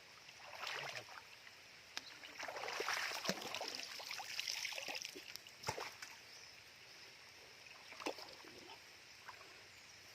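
Someone wading through shallow water: irregular splashing and sloshing, loudest from a couple of seconds in, with a few sharp knocks.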